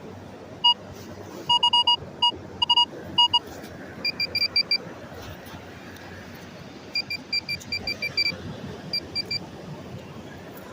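Metal detector beeping over a buried coin: quick groups of short electronic beeps at a lower pitch, then rapid runs of beeps at a higher pitch about four seconds in.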